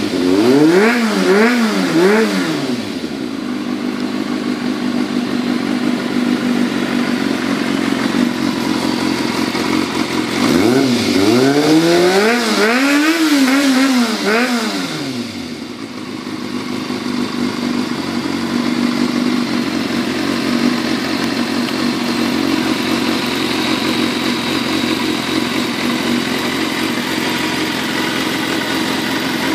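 Kawasaki ZRX400-II's inline-four engine breathing through an aftermarket carbon muffler, blipped with a few quick revs near the start and a run of quick revs from about ten to fifteen seconds in, dropping back to a steady idle between and afterwards.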